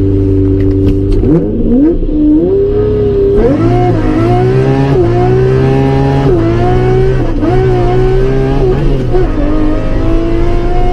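A high-performance car engine running loud, first holding steady, then revving or pulling hard with its pitch climbing and dropping sharply again and again, like quick gear changes or repeated blips of the throttle.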